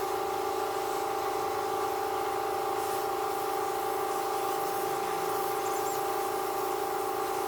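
A steady mechanical hum with a few fixed tones, unchanging throughout.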